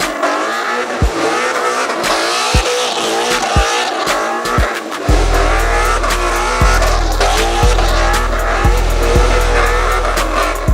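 Car tires squealing and wavering in pitch, under a music track with a regular kick drum and a deep sustained bass that comes in about halfway through.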